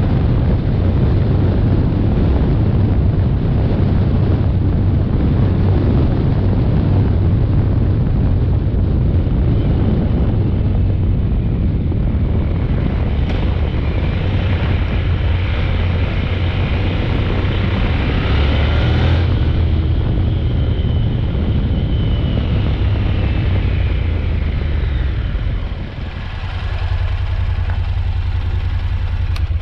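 Honda NC750X motorcycle's parallel-twin engine running steadily while riding, with wind rushing over the action-camera microphone. The level dips briefly near the end.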